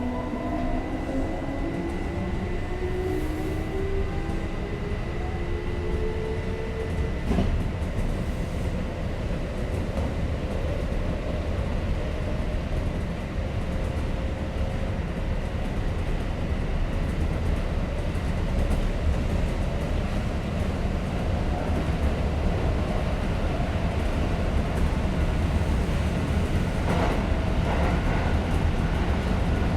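Kintetsu 5800 series electric train heard from inside a car: the traction motor whine climbs in pitch over the first several seconds as the train accelerates, then gives way to steady running noise with the wheels rumbling on the rails.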